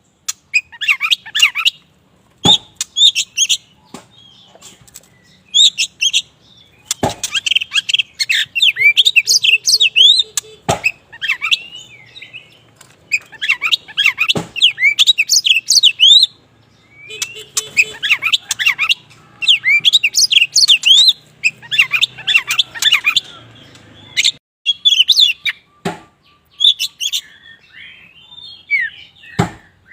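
Black Oriental magpie-robin (kacer wulung) singing in bursts of fast, varied, high whistled and chirping phrases with short pauses between them. Now and then a sharp click sounds.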